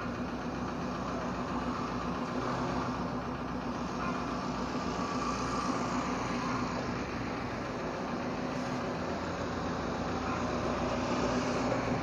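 Toyota Innova's engine idling steadily while the car is inched along at walking pace.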